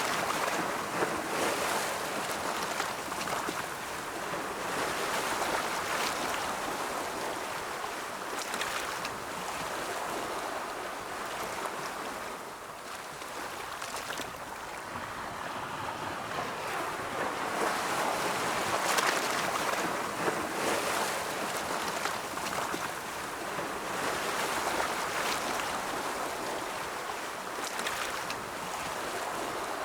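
Ocean surf: waves breaking and washing in a continuous rushing hiss that swells and ebbs every few seconds, with brief sharper splashes as individual waves break.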